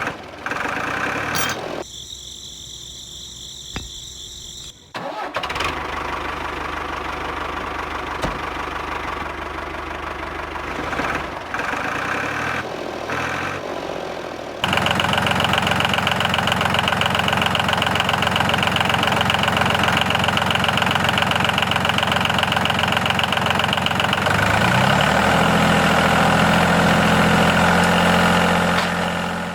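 A tractor engine starting and running steadily, becoming clearly louder about halfway through, with its pitch sliding up and down a few seconds before the end.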